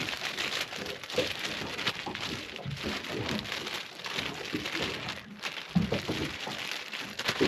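Plastic shake-and-bake bag holding fish pieces and seasoning being shaken hard: a continuous rustling, crinkling rattle that stops at the very end.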